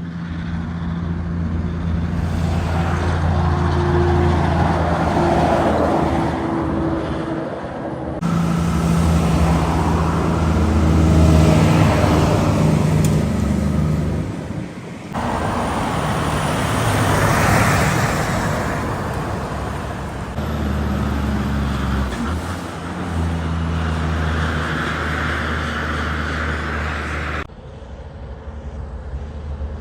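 Heavy trucks driving past on a road, with engine drone and tyre noise swelling and fading, in several short clips cut together: the sound changes abruptly three times.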